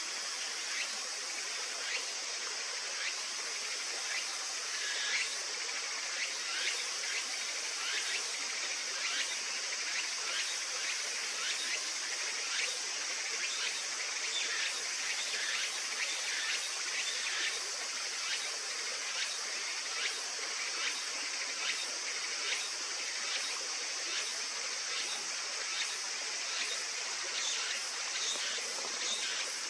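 Flowing river water, a steady rushing hiss with many small irregular splashes and gurgles.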